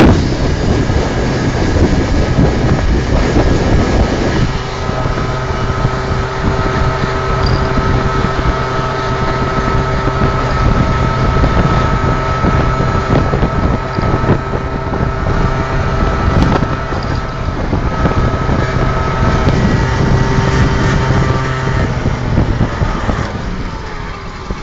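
Motorcycle engine running at a steady pitch while riding, with wind rushing over the microphone; it eases off near the end.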